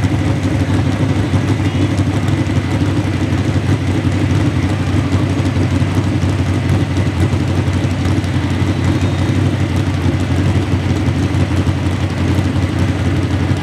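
A large tractor engine idling steadily, with no revving.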